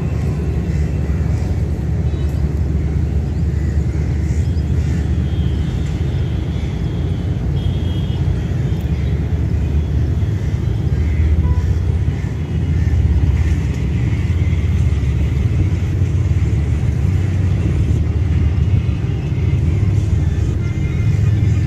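Diesel-hauled train rumbling steadily, a deep low drone that grows a little louder about twelve seconds in.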